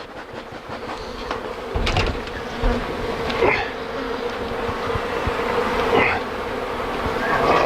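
Honey bee colony buzzing loudly, a dense steady hum that grows louder over the first couple of seconds: bees stirred up as their exposed hive is cut apart. A few short knocks sound through it.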